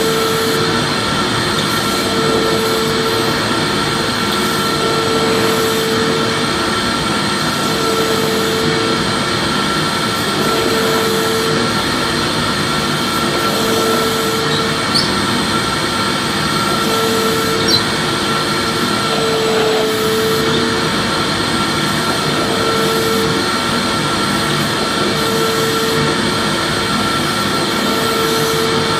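Vacuum cleaner running steadily, with a hum that swells and fades about every two and a half seconds. Two short clicks come about halfway through.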